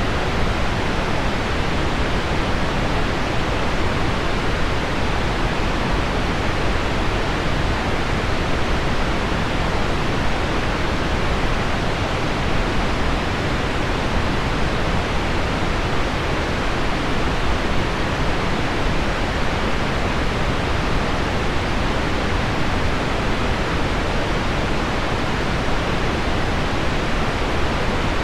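Heavy rain on window glass blended with low pink noise: a steady, even hiss, fuller in the lows and thinning in the highs, with no single drops or events standing out.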